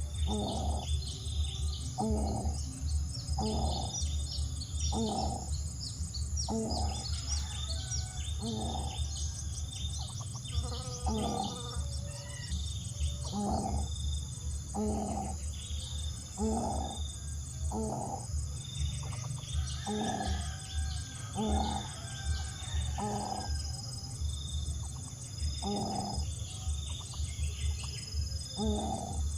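Low pitched bird calls repeated about once a second, with high, short chirps of small birds over a steady low rumble.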